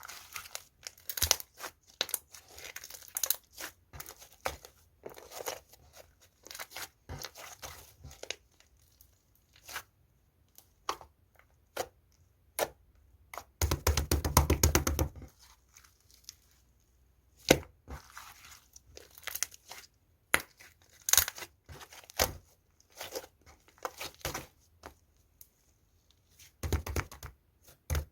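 Pink slime with round clay mixed in, kneaded and squished by hand: irregular sticky crackles, pops and clicks, with a denser, louder squishing stretch about halfway through.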